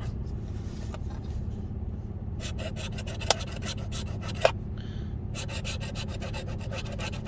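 Scratch-off lottery ticket being scratched with quick back-and-forth strokes, in two runs, with two sharp clicks in between. A steady low hum runs underneath.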